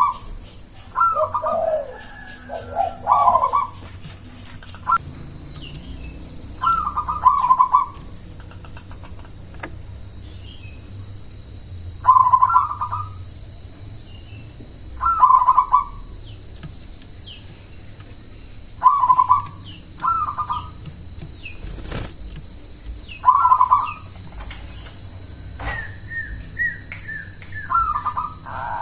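Zebra dove (perkutut) of the black cemani variety singing its cooing song: short warbled phrases of about a second, repeated every three to four seconds. A steady high-pitched whine runs underneath, with faint chirps from another small bird.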